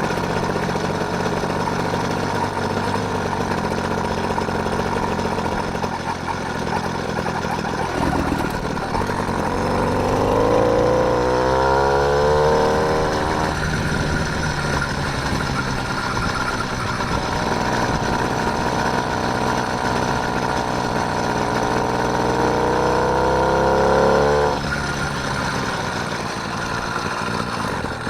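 Motorised bicycle's small engine running under way, with its pitch climbing as it speeds up twice. The first climb runs from about eight seconds in and drops back abruptly a few seconds later. The second is a longer climb that cuts off suddenly a few seconds before the end.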